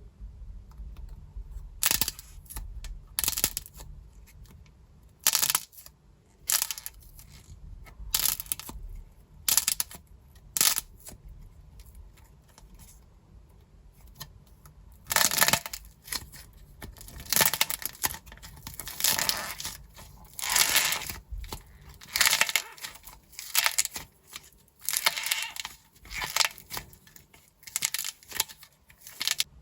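Dried plaster clay cracking and crumbling in short, crisp crackling bursts. They come spaced out at first, then after a lull about halfway through follow close on one another.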